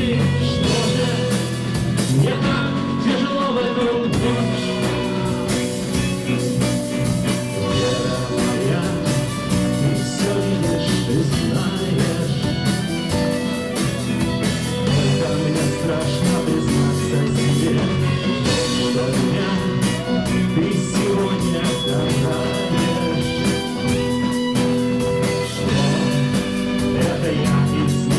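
A rock band playing live: guitars, bass and a steady drum beat in a passage without sung words.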